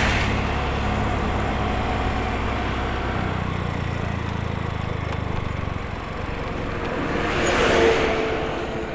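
Motorcycle engine running steadily on the road, its note shifting about three seconds in. Another vehicle swells past near the end.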